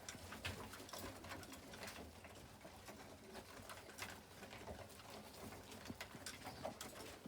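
Pigeons cooing faintly in a loft, with a few light clicks scattered through.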